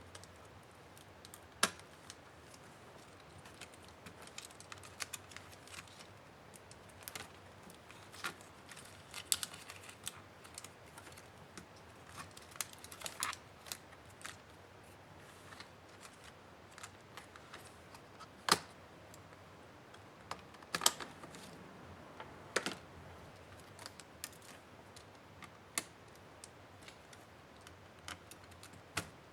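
HP 15-da laptop being taken apart by hand: scattered, irregular sharp clicks and taps of plastic parts and small tools, with a few louder knocks.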